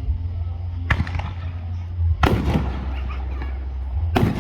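Fireworks going off: a sharp bang about a second in, then two heavier booms about two seconds apart, each trailing off in crackle, over a steady low rumble.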